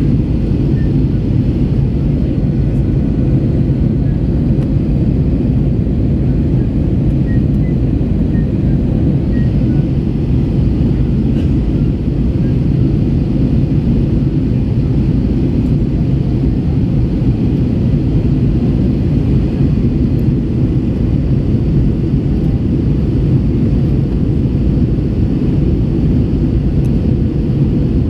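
Steady engine and airflow roar of an Airbus A321 in flight, heard from inside the cabin: a deep, even rumble with a faint steady hum above it, unchanging throughout.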